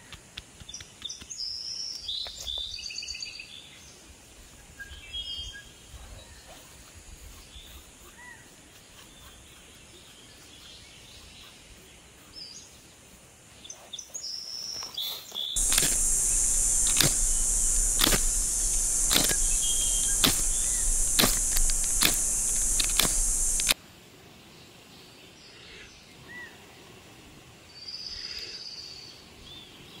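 Birds chirping in quiet open air. Midway, a loud steady hiss full of sharp crackles starts suddenly, runs for about eight seconds and cuts off just as suddenly, and it is the loudest thing heard.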